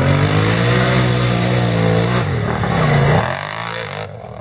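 Quad bike (ATV) engine revving as it passes, its pitch rising and then falling, dropping away about three seconds in.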